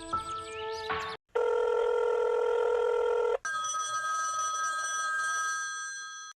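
Telephone ringing sound effect: two long steady rings, the second fading away near the end, after a second of music at the start.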